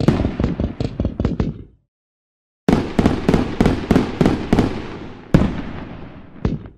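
Fireworks sound effect: a rapid volley of sharp bangs and crackles, a second of silence, then a longer volley of bangs that trails off near the end, with one last crack.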